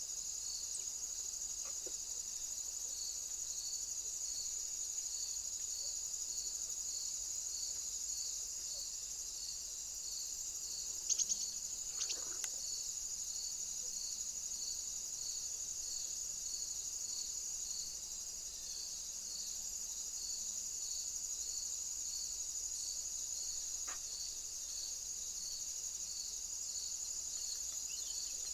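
Crickets chirping steadily, a high continuous trill with a regular pulsing chirp about twice a second. A brief louder knock or rustle comes about eleven to twelve seconds in, and a fainter one near the end.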